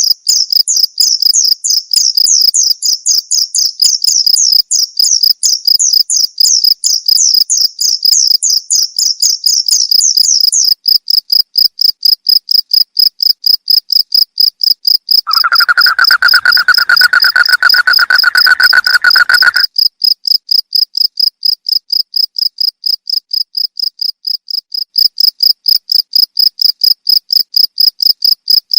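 Crickets chirping in rapid, even pulses throughout. A second, higher chirping layer runs over them for the first ten seconds, and a lower, steadier trill joins for about four seconds past the middle.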